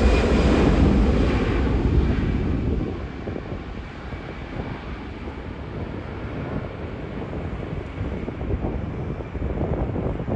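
Airliner engines fading away over the first few seconds as the aircraft moves off, leaving gusting wind buffeting the microphone, louder again near the end.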